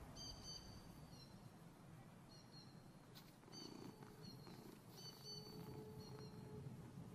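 Faint outdoor background with a bird's short high whistled calls repeated about once a second.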